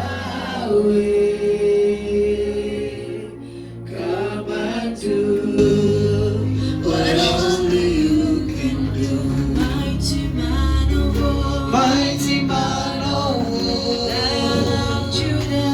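Gospel worship song: voices singing long held notes over a low, steady instrumental accompaniment.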